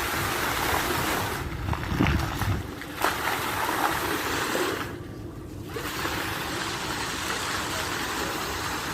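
Waterfall: a steady rush of falling, splashing water that dips briefly about five seconds in.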